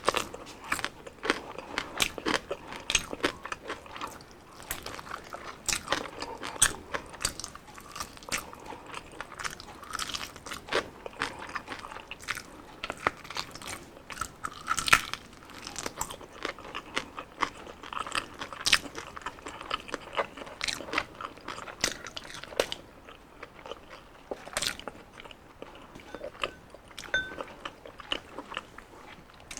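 Close-up crunching and chewing of crisp deep-fried skin, with many sharp, irregular crackling bites.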